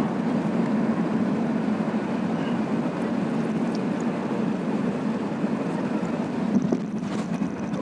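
Airbus A380-800 passenger cabin on landing: a steady, low rumble, with a couple of brief knocks near the end.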